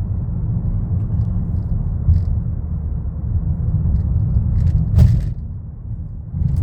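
Steady low rumble of a car being driven, heard inside the cabin, with one sharp knock about five seconds in.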